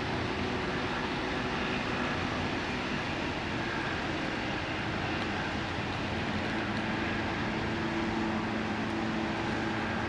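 Steady drone of the river cruise ship Vasily Surikov's engines, an even mechanical hum with faint humming tones that waver slightly in pitch.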